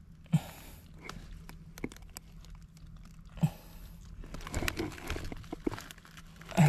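Rustling, crackling handling noise from digging at a crab burrow in wet mud and leaf litter, with two short scuffs early on and about three and a half seconds in, then denser crackles and clicks near the end.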